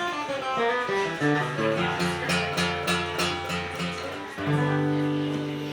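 Guitar played between sung lines of a song: single picked notes at first, then strummed chords about two seconds in, and a chord left ringing near the end.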